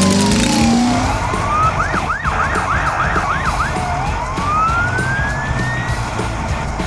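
Police siren sound effect: a slow falling-then-rising wail, then a quick run of about six short yelps at roughly four a second, then another slow rising wail, over a steady low rumble.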